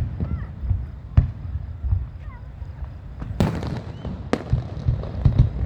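Fireworks going off: four sharp bangs, one at the start, one about a second in and two close together about three and a half and four seconds in, over a low, uneven rumble of further bursts.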